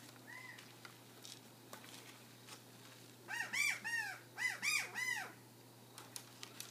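Crow-like cawing: one short call, then about three seconds in a quick run of about seven caws, each a rising-and-falling note.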